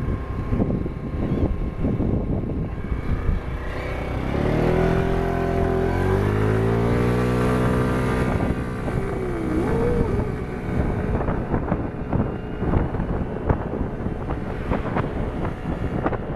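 Motorcycle engine running, its pitch climbing as it revs from about four to eight seconds in, then fading, over a steady engine and traffic din.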